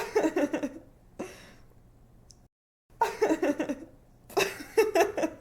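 A young woman laughing: three bursts of quick, pulsing giggles, with a short breath after the first.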